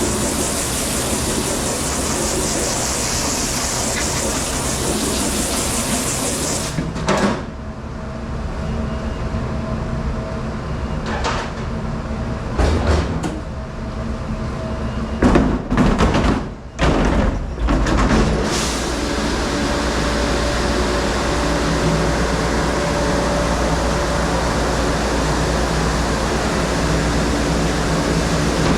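Steady machine noise with a low hum, broken around the middle by a handful of sharp knocks and clatters.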